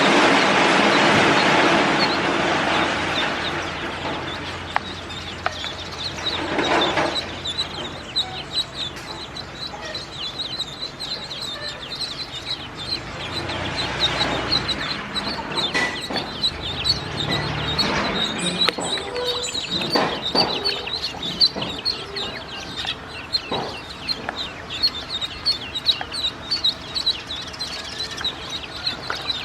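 A brood of ducklings peeping: a dense run of quick, high chirps. A loud rushing noise fades out over the first few seconds.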